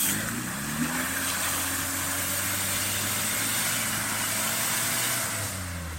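Off-road 4x4 engine revving up in the first second and held at high revs under load, with a steady hiss above it. The revs drop near the end.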